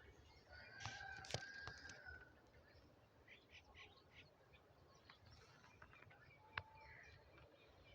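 Near-silent outdoor ambience with faint scattered bird chirps and calls, including one held whistled note about a second in.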